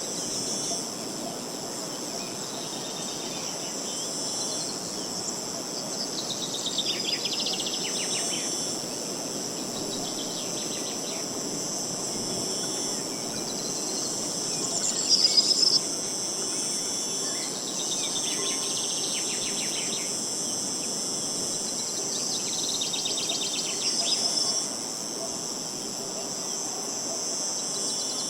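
A steady high chorus of insects with a bird singing over it: a rapid trill that falls in pitch, heard three times about eight seconds apart. A light rushing of wind sits underneath.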